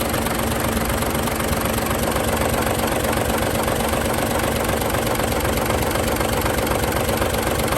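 Mitsubishi Fuso Super Great truck's diesel engine idling steadily, heard close up with the engine bay open.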